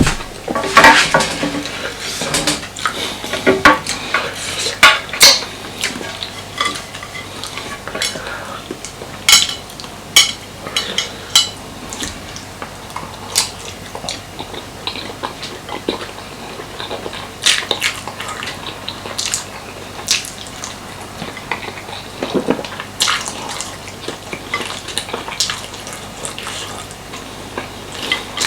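Cutlery clinking and scraping on a plate during a meal, in irregular sharp clicks spread through the whole stretch.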